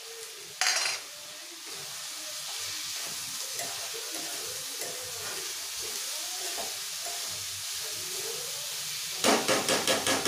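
Bitter gourd pieces sizzling steadily as they fry in a steel pan, with a short clatter about half a second in. Near the end comes a rapid run of scraping strokes, about six a second, as the pan is stirred.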